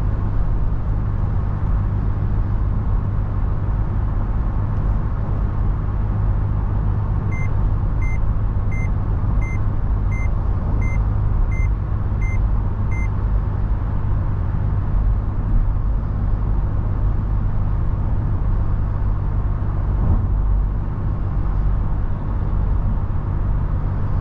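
Steady low drone of a Toyota FJ Cruiser on the move, engine and road noise. About a third of the way in come nine short high beeps, evenly spaced under a second apart.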